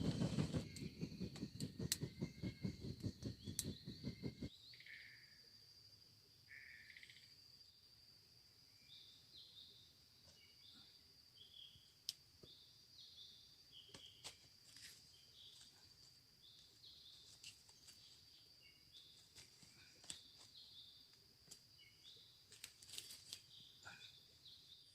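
Forest ambience: a steady high insect drone with short chirps and scattered sharp clicks. For the first four and a half seconds a louder, rapid low pulsing rumble runs underneath, then stops abruptly.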